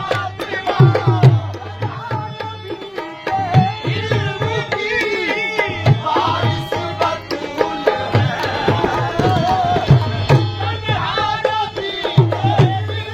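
Qawwali music with a steady, driving hand-drum rhythm under held and gliding melodic lines.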